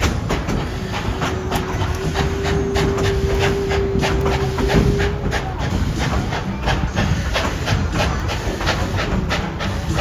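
Tweetsie Railroad's narrow-gauge steam train rolling along with a steady rumble and a rapid clatter of clicks. A single steady, whistle-like tone starts about a second in and stops about five seconds in.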